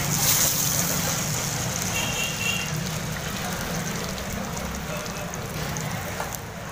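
Chapli kabab patty frying in very hot shallow oil in a large flat karahi, a steady sizzle.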